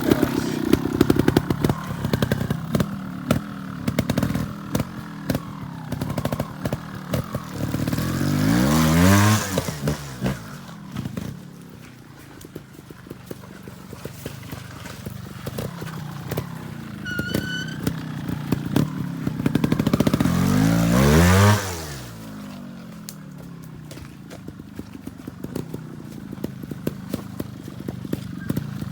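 Trials motorbike engine blipping the throttle over obstacles, with many sharp clicks and clatters. Twice the engine revs up hard and then falls away.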